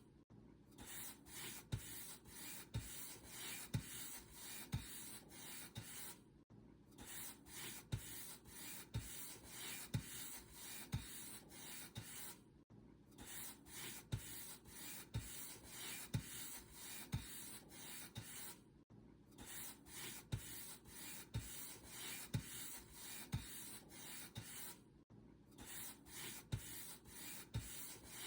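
Paint brush bristles stroking across a surface, a dry rustling swish about once a second with a soft low thud at each stroke. The strokes pause briefly about every six seconds.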